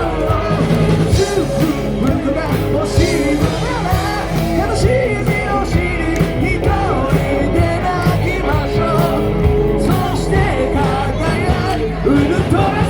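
Live rock band playing, with a singer's voice over the band.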